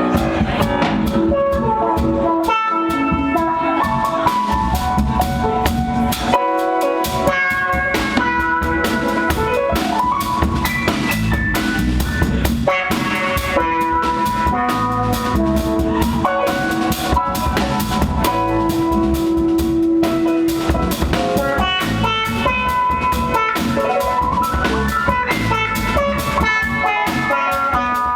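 Live band playing instrumental music: drum kit and bass under sustained guitar notes.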